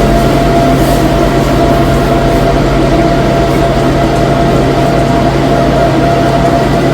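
A steady, loud drone with a constant low hum and a higher held tone, unchanging throughout, like a motor or burner running.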